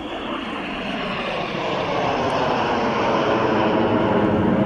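Aircraft engine noise from a plane flying in, growing steadily louder as it approaches.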